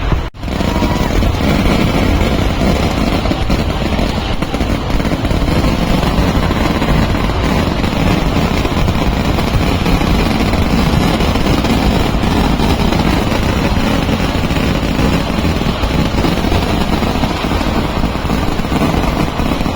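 A massive fireworks barrage of firecrackers going off so fast that the blasts merge into one continuous loud roar. The sound briefly cuts out just after the start.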